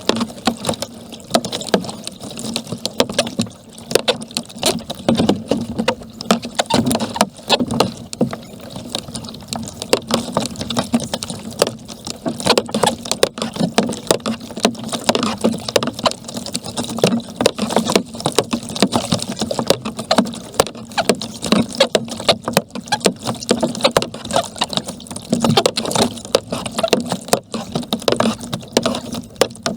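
Kayak being paddled: a continuous run of paddle blades dipping and splashing in the water, with water lapping at the hull.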